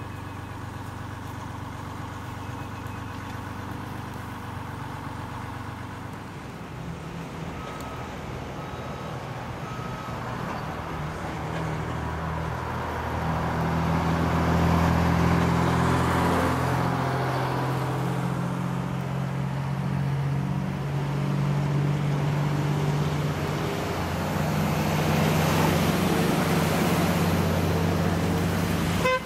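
A motor vehicle's engine running steadily under way, with road noise, getting louder about halfway through.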